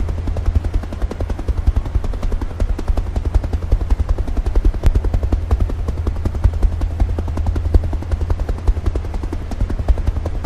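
Helicopter rotor chop: a fast, steady pulsing beat with a heavy low rumble.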